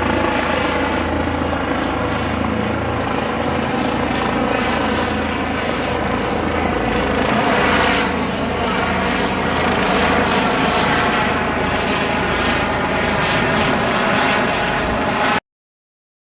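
Helicopter running steadily, engine whine and rotor noise together, with a fast rhythmic pulse from the blades; it cuts off suddenly near the end.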